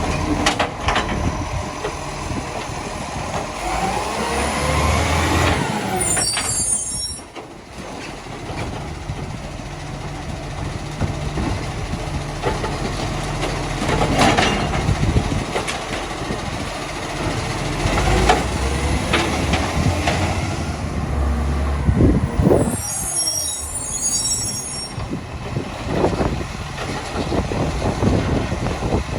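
Side-loader recycling garbage truck working: its diesel engine runs and rises in pitch, falling back twice, with a short burst of hissing air each time.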